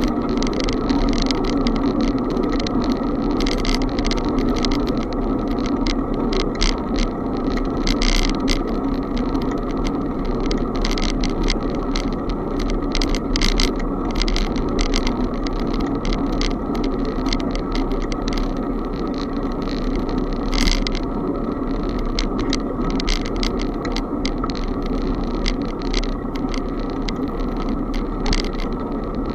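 Riding noise of a bicycle heard from a camera on the bike or rider: a steady rush of wind and road noise, with frequent small rattling clicks throughout.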